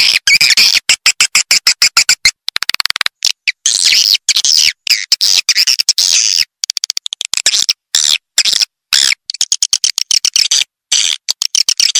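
Swiftlet call recording used as a lure for a swiftlet nesting house: rapid, high-pitched chirping twitters in short bursts broken by brief silences, with a fast rattle of clicks about three seconds in.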